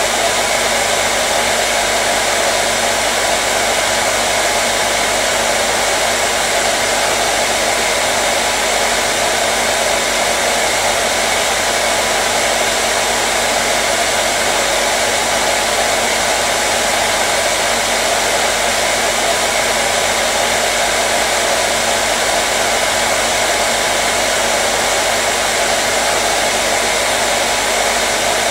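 Hair dryer running steadily on one setting: an even blowing noise with a faint steady motor hum.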